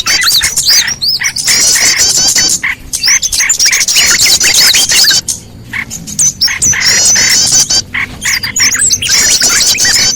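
Bird-lure recording of small songbirds calling: rapid runs of short, high, arching chirps, several a second, broken every second or two by brief pauses.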